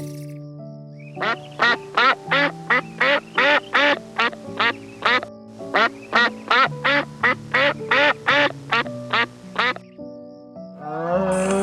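Duck quacking in two fast runs of about four quacks a second, over background music with held notes. Near the end a Highland cow begins a long moo.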